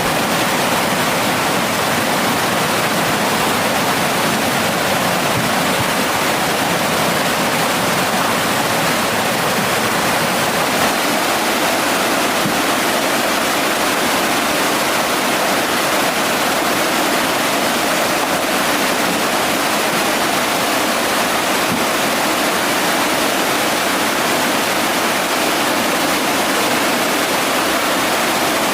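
Mountain stream water rushing steadily, an even hiss-like roar of flowing water that does not change.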